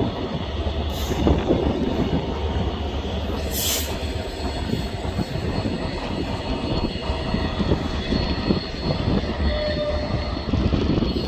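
A train running on the rails with a steady rumble and a faint, thin high whine, and a short hiss about three and a half seconds in.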